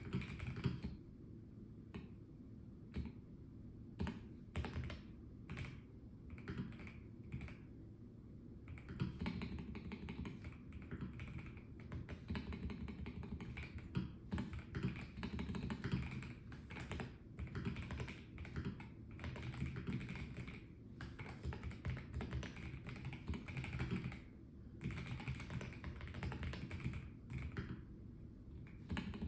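Typing on a Melgeek Mojo84 plastic mechanical keyboard: scattered single keystrokes for the first several seconds, then fast, continuous runs of key clacks broken by short pauses.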